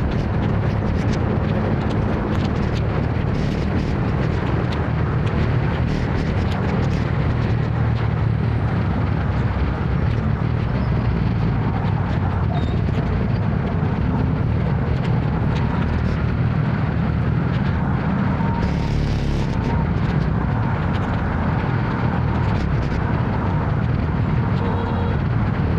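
Steady low rumble of a scooter ride in city traffic: engine, road and wind noise on the microphone, with a brief hiss about two-thirds of the way in.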